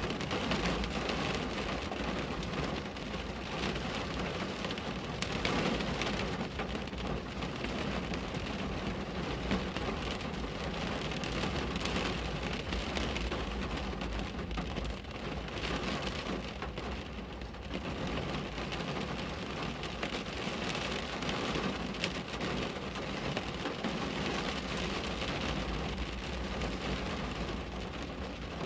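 Steady rain falling on a window: an even hiss full of small drop hits, swelling and easing a little now and then.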